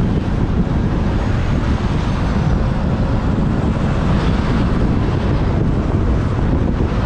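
Wind buffeting the microphone of a moving motorbike, a steady loud rumble, with the bike's engine and surrounding traffic underneath.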